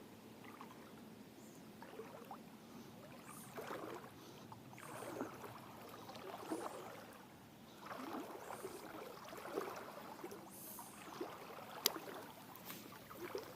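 Faint sloshing and splashing of river water around the legs as someone wades in slippers, a surge with each step every second or two. A single sharp click near the end.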